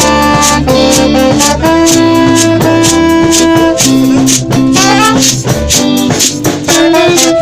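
Reggae band playing an instrumental passage: held melody notes over a steady beat of regular percussion strokes.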